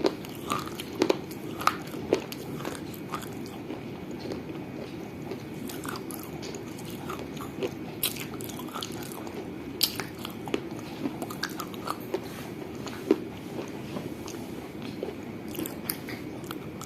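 Biting and chewing pieces of a miniature baked-clay piggy bank (gullak): many irregular sharp crunches over a steady low grinding noise.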